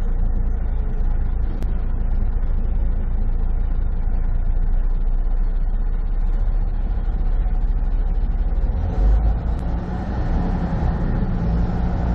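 Semi truck's diesel engine and road noise heard from inside the cab at highway speed, a steady low rumble. About nine seconds in there is a heavy low thump, after which the engine's drone comes up stronger.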